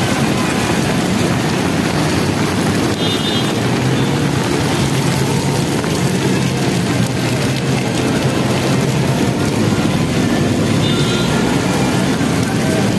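Heavy rain pouring steadily, mixed with the running of nearby road traffic such as motorcycles and auto-rickshaws. Two brief high tones sound about three seconds in and near the end.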